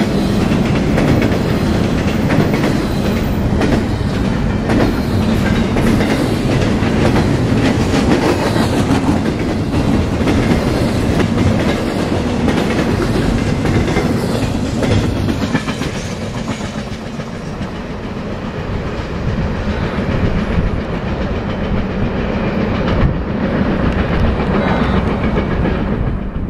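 A train's cars rolling past close by, a loud, steady rush of wheels on rail with many quick clicks as the wheels cross the rail joints. It eases slightly about two-thirds of the way through, then picks up again.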